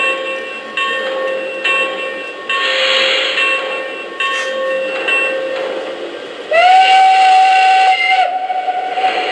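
Sound system of a Lionel Legacy O-scale PRR B6sb 0-6-0 model steam locomotive playing slow, spaced steam exhaust with a burst of steam hiss about two and a half seconds in. About six and a half seconds in, a steam whistle sounds, bending up at the start and holding for under two seconds.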